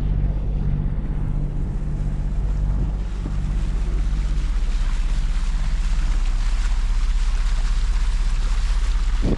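Sailing catamaran's inboard engine running with a steady low hum, with wind on the microphone and water rushing past the hull.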